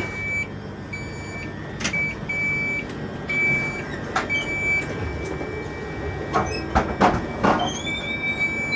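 Train door warning beeps: a high-pitched beep repeating about once a second, held as a steady tone near the end, over the low hum of the train, with a few knocks and clatters.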